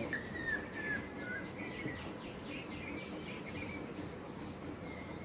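Several small birds chirping faintly over a steady outdoor background. A short wavering whistle comes in the first second, followed by a run of quick, repeated high chirps.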